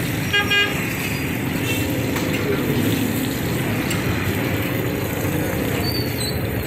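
Chapli kebabs sizzling in oil on a large flat griddle, over steady street traffic noise, with a brief ringing tone about half a second in.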